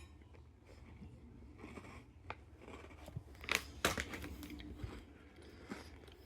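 Crunching as a Kinder Kinderini chocolate shortbread cookie is bitten and chewed: scattered crisp cracks, the two loudest a little past the middle.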